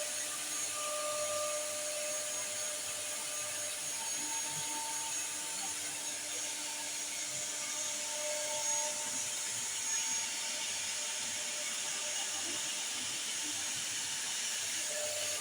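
FC1325 CNC router working: the spindle runs steadily with a high whine, while lower motor tones come and go every second or two as the machine moves through its cut.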